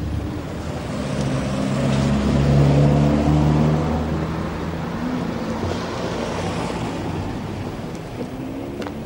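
Car engine running as a car drives off down the street, loudest for the first few seconds and then fading away into outdoor noise.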